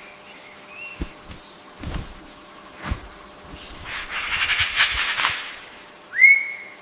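A bird's loud whistled note near the end, sweeping up quickly and then held level. Before it come a buzzy, rattling stretch in the middle and three soft knocks about a second apart.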